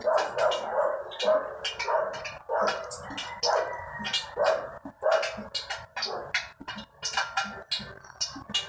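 An animal calling over and over in short calls, about two or three a second, with sharp clicks between them.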